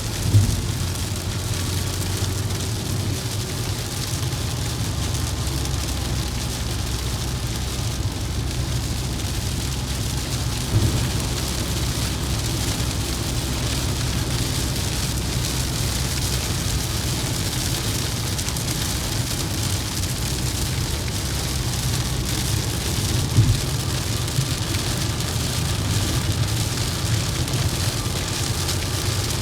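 Vehicle driving in heavy rain: a steady low road rumble under an even hiss of rain and wet-tyre spray, with three brief thumps along the way.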